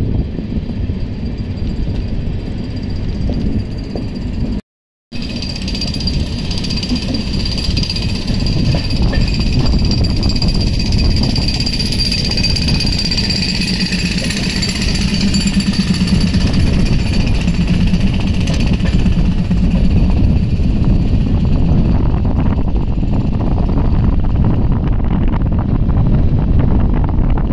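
Passenger express train running at speed, heard from an open coach door: a loud, steady, rapid rattle of wheels and coaches on the track, with wind noise. The audio cuts out for about half a second some five seconds in.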